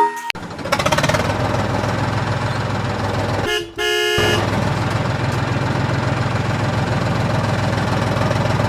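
Electronic sound effects from a toy vehicle: a steady engine rumble, with a short horn toot about three and a half seconds in.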